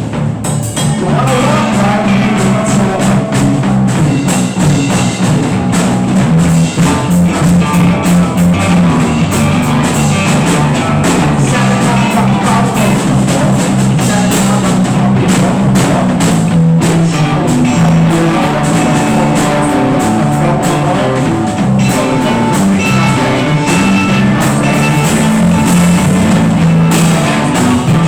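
Rock band playing a loud, steady improvised jam, with drum kit and guitar.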